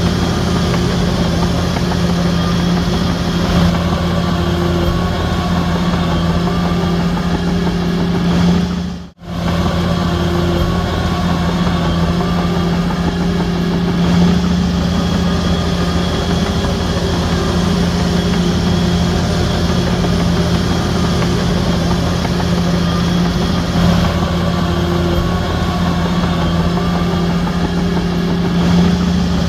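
Heavy diesel earthmoving machinery running steadily with a constant low drone. The sound cuts out sharply for a moment about nine seconds in, then resumes unchanged.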